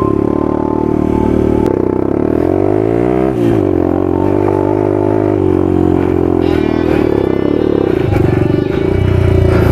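Dirt bike's single-cylinder four-stroke engine running under way, its revs dropping and climbing again about three seconds in and changing once more near the end.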